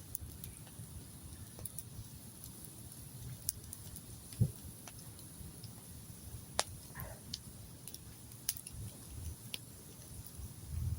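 Wood campfire crackling, with sharp irregular pops and snaps, the loudest about four and a half seconds in, over a low steady rumble.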